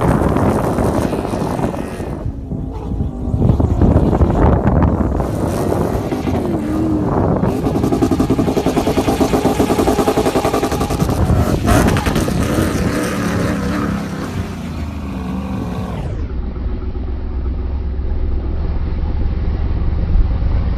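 Toyota Hilux's swapped-in Lexus V8 engine running and revving, its pitch rising and falling. Near the end it settles into a steadier low rumble.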